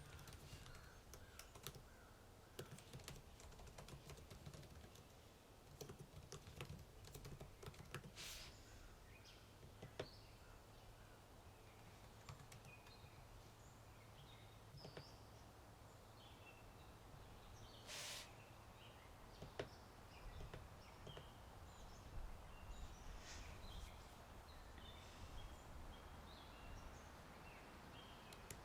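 Faint computer-keyboard typing, irregular key clicks, over a low steady outdoor wind rumble, with short bird chirps mostly in the second half.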